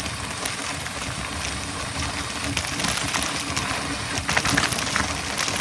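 Mountain bike rolling along a dirt trail: steady tyre noise over the ground with many small clicks and rattles, and a low irregular rumble.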